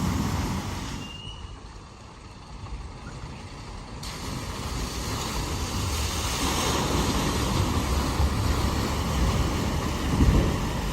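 A motor vehicle driving through a flooded ford, its engine noise mixed with the rush and splash of water. The sound falls away for a few seconds after about a second, then builds back up and holds steady.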